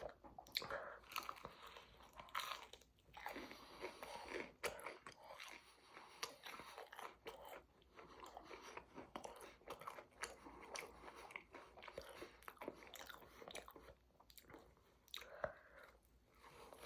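A person chewing and biting food close to the microphone, with irregular sharp clicks and mouth noises throughout.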